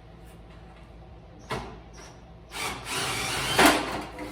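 Cordless screw gun: a sharp click about one and a half seconds in, then the tool runs for about a second and a half, loudest near the end, as it works at a screw.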